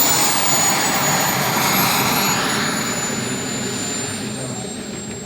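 Gas turbine of a Tomahawk Futura 3D RC jet flying past: a high whine over a loud rush of jet noise. It is loudest at the start, then the whine falls in pitch and the sound slowly fades as the plane moves away.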